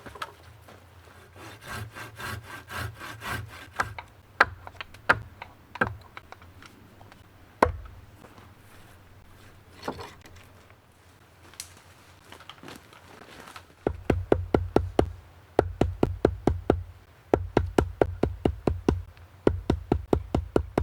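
A hand tool working wood in quick rhythmic strokes, like sawing. A short run of strokes is followed by a few separate knocks, then a long fast series of strokes in short bursts from about two-thirds of the way through.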